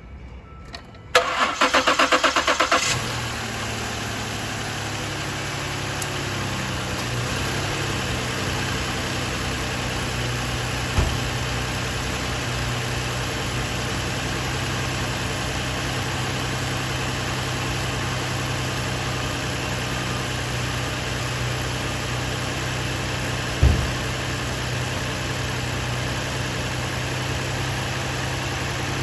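Engine cranked by its starter about a second in, pulsing for about two seconds before it catches, then settling into a steady idle. Two short knocks sound over the idle, one about a third of the way through and one later on.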